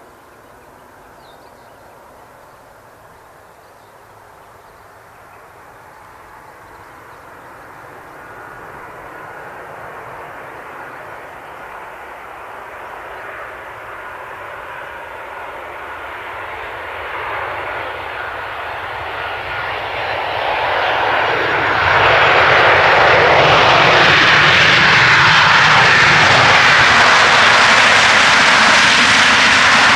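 Boeing 737-800 jet airliner with CFM56 turbofan engines, approaching to land and growing steadily louder as it nears. About two-thirds of the way through the engine noise turns abruptly louder and fuller, then holds loud.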